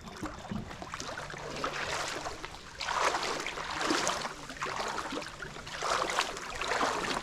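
Shallow water sloshing and swishing in a series of surges about a second apart, with a faint steady low hum underneath.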